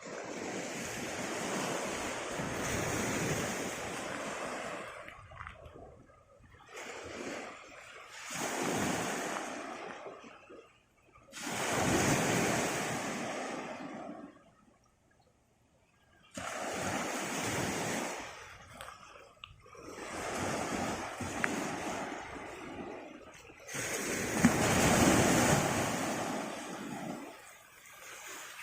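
Sea waves breaking and washing up on the shore, one after another, each surge lasting a few seconds with short lulls between them.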